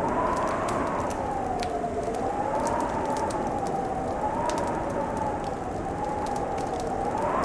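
Wood fire crackling, with scattered sharp pops over a steady hiss, under a howling wind whose pitch slowly rises and falls.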